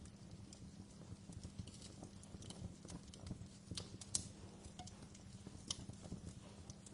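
Wood fire in a fireplace crackling: irregular sharp pops and snaps over a low, steady rumble of the burning fire, the loudest pop about four seconds in.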